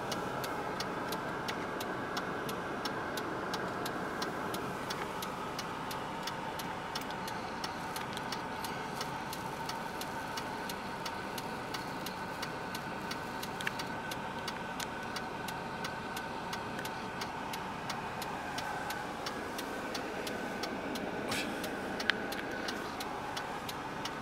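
Car engine idling steadily, with a constant hum and a fast, even ticking over it; one sharper click about twenty-two seconds in.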